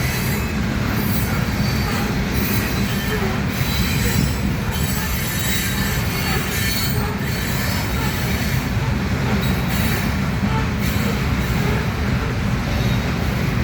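Loaded gravel freight train rolling past in a steady heavy rumble, with faint high-pitched wheel squeal on the rails coming and going.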